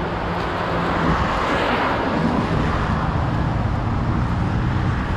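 Strong wind gusting through the trees and buffeting the microphone: a steady low rumble under a rushing hiss that swells a couple of seconds in.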